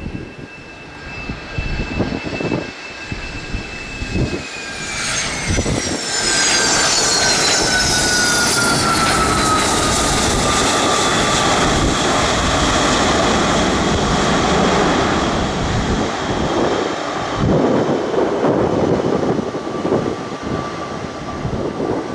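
Jet aircraft passing close by, its high engine whine dropping in pitch as it goes past, followed by a loud, steady engine roar that slowly eases.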